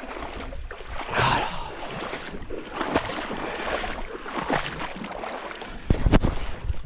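Water sloshing and splashing around the legs of a person wading in a shallow river, in uneven surges. A few sharp low thumps come near the end.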